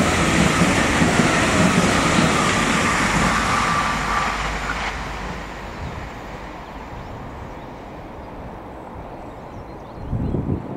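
Irish Rail 22000 Class diesel multiple unit passing close at speed, with a loud rush of wheels on rail and a faint whine. The noise drops away about five seconds in and settles to a quieter steady rumble, which swells again near the end as a 22000 Class unit draws nearer.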